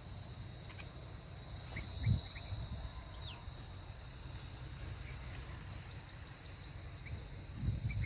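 A quick run of about a dozen short, high rising bird chirps, with a few single chirps before it, over a steady high insect hum. Low thumps, likely wind or handling on the microphone, come about two seconds in and again near the end.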